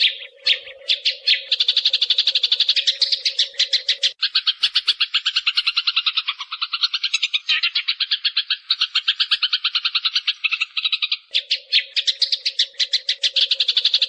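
Sparrows chattering in a rapid, continuous stream of chirps, about ten a second, as used in a decoy call for luring sparrows. For about seven seconds in the middle the chirps drop lower in pitch, and a steady low hum runs under the opening and closing seconds.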